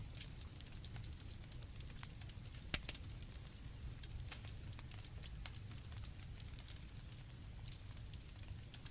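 Campfire crackling, with scattered small pops, one sharp crack nearly three seconds in, and a low rumble of the burning wood. Crickets chirp faintly and steadily behind it.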